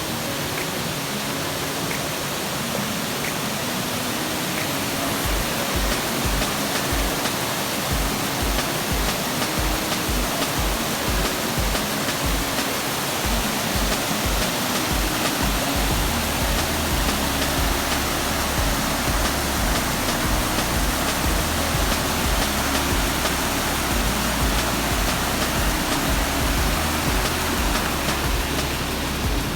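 Steady rush of water from a tall artificial waterfall, with background music over it. A pulsing bass beat comes in about five seconds in and turns into a steady bass line around the middle.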